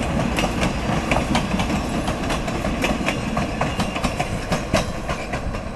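Passenger cars of the Rio Grande ski train rolling past close by: a steady rumble of steel wheels on the rails, with many sharp clicks and clacks from the wheels on the track.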